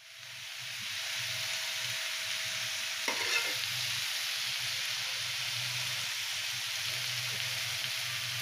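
Chopped ash gourd and dried fish sizzling steadily in oil in a karai, fading in over the first second. A spoon scrapes the pan briefly about three seconds in. The oil has separated from the vegetables, the sign that the dry curry is done.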